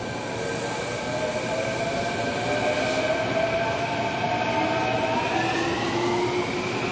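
Electric train on the Kintetsu Nara Line approaching the station, growing steadily louder. Several whining tones from its electric drive drift slowly in pitch over the rising rumble of wheels on rail.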